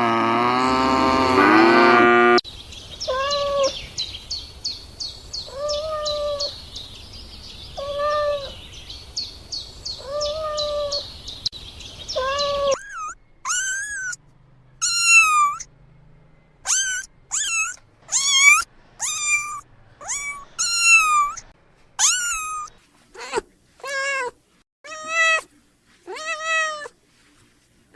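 A cow's moo ends about two seconds in; then a cat meows over and over, one call every couple of seconds, against a fast high ticking. After a sudden change a kitten meows in quick, high-pitched calls, many in a row.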